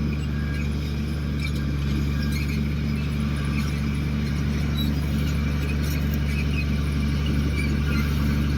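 Komatsu D58 bulldozer's diesel engine running steadily at a low, even drone, with faint short high squeaks scattered through it.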